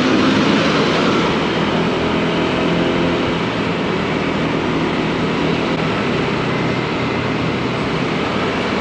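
Honda Click 160 single-cylinder scooter running at steady speed in heavy city traffic, its engine drone mixed with rushing wind and the noise of the surrounding vehicles.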